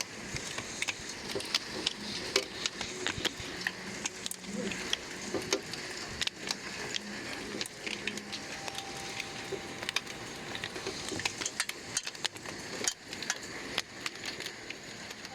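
Heavy rain mixed with hail: a steady hiss of rain with many rapid, irregular sharp clicks of hailstones striking hard surfaces.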